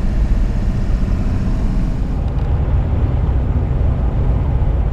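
Steady low rumble of a vehicle cruising at highway speed, engine and tyre noise heard from inside the cabin.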